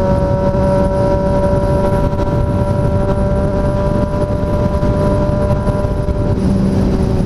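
Triumph Street Triple 765RS's three-cylinder engine running at a steady highway cruise, one constant pitch, under heavy wind rush on the microphone.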